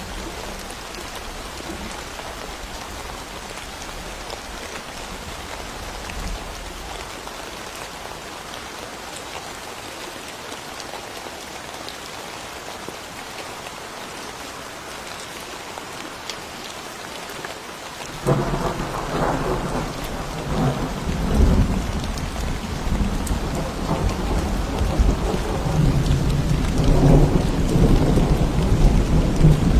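Steady rain falling, then a thunderclap breaks about two-thirds of the way in, and thunder keeps rumbling on, growing louder near the end.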